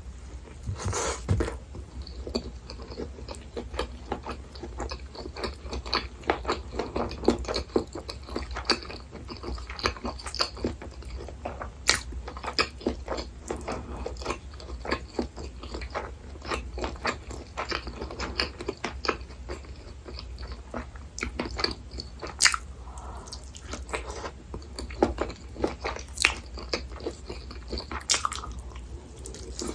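A person chewing and biting food close to the microphone, with many irregular moist clicks and crackles over a steady low hum.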